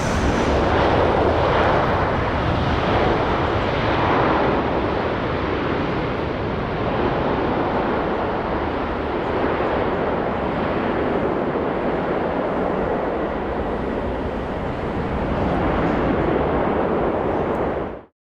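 Jet airliner's engines: a loud, steady rush of noise that swells slightly in the first few seconds and again near the end, then cuts off suddenly.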